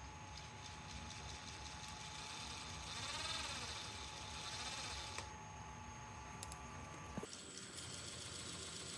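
Small electric motor running steadily and faintly, with a sudden change in its tone and a click about seven seconds in.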